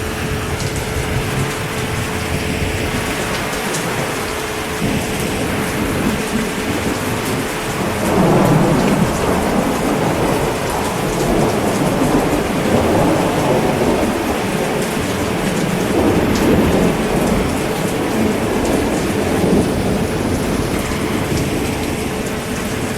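Steady heavy rain with thunder rumbling in long rolling waves, starting about a third of the way in and swelling several times.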